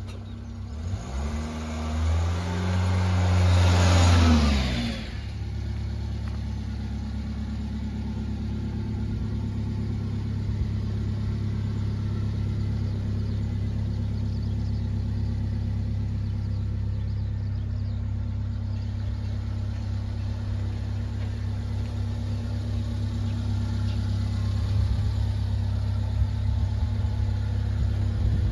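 Subaru Sambar kei truck's supercharged engine revving up, its pitch climbing and held high for a few seconds. It drops back about five seconds in and settles into a steady idle.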